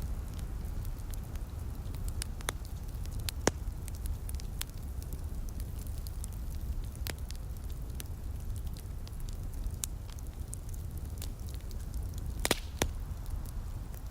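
Wood fire in a fireplace crackling, with scattered sharp pops over a steady low rumble. The loudest pops come about three seconds in and near the end.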